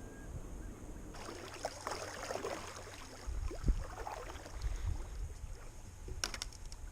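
Kayak paddle strokes splashing and dripping water over a low rumble. A few sharp clicks come near the end.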